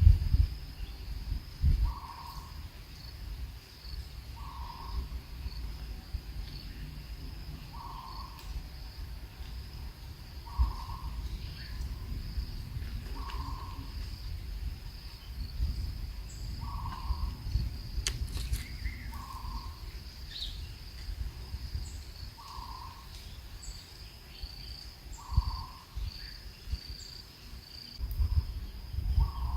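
Outdoor ambience: a steady insect chorus, with a short low-pitched call repeated about every two and a half to three seconds, around ten times, over a low rumble that swells near the start and the end.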